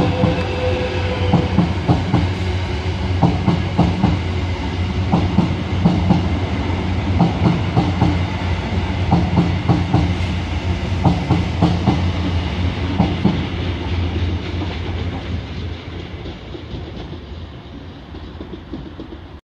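Great Northern electric multiple-unit train running along the platform, its wheels clicking over rail joints in quick groups over a steady low hum. The sound fades over the last few seconds as the train draws away.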